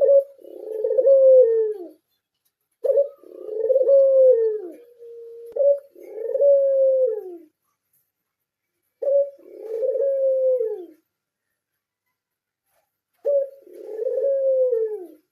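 Pied (blorok) Barbary dove, the puter, cooing: each phrase a short note followed by a longer falling coo, repeated about five times with pauses between.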